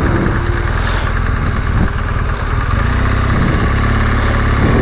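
BMW GS Adventure motorcycle engine running steadily at low revs while the bike waits or crawls in slow traffic.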